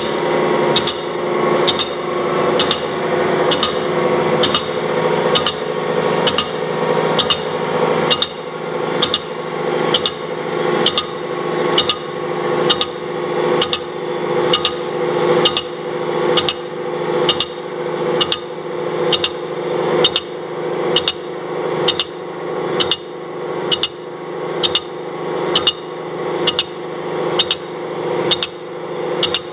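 Horizontal boring mill skimming a chimney base casting: the spindle runs with a steady drone, and a sharp knock comes about once a second, once per revolution, as the cutter strikes the offset casting in an interrupted cut.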